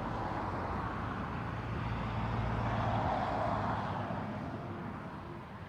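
Airliner's jet engines passing, a rushing roar that swells to a peak about three seconds in and then fades away.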